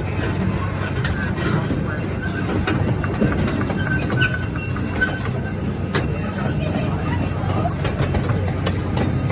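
Narrow-gauge zoo train rolling along the track with a steady low rumble, and a few sharp clicks along the way.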